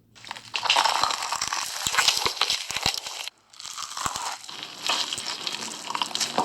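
Loud, dense crinkling and crunching of Hot Cheetos close to the microphone, with many sharp crackles. It cuts off abruptly a little over three seconds in and then starts again.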